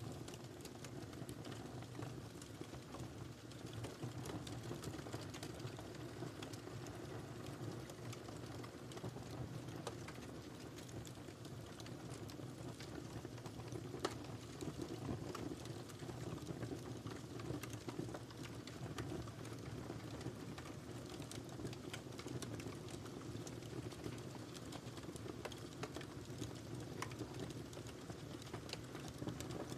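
Wood fire crackling steadily in a fireplace, with frequent small pops and one sharper pop about halfway through.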